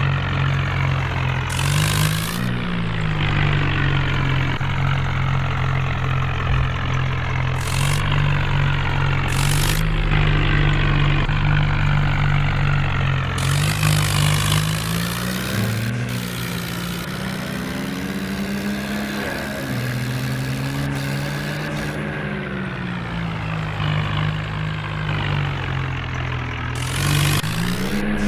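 New Holland tractor's diesel engine running, its pitch rising and settling a few times: about two seconds in, through the middle stretch and near the end. Several short bursts of hiss come over it.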